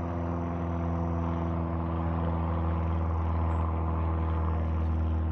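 Airplane engine droning overhead: a loud, steady, low hum.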